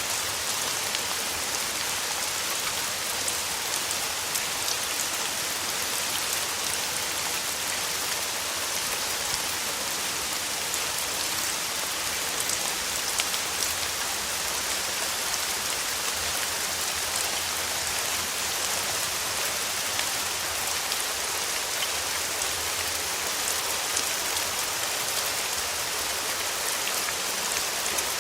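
Steady summer rain falling, an even hiss full of many small drop ticks.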